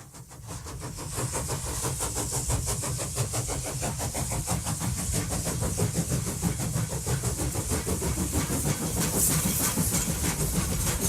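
Model train running on its layout track: a dense, rapid clicking over a low rumble and a steady hiss, fading in over the first second.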